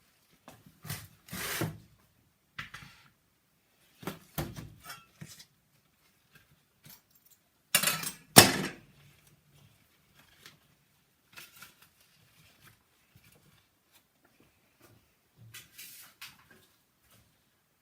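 Kitchen handling sounds: irregular knocks and clatter of utensils and dishes on wood, with two loud knocks about eight seconds in.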